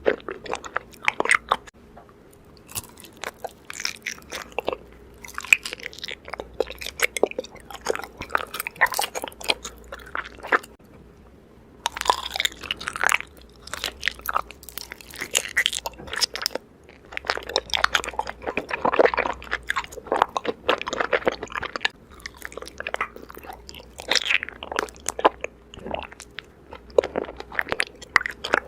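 Raw honeycomb being bitten and chewed: crunching and chewing in irregular clusters of crackles, with a few short pauses between mouthfuls.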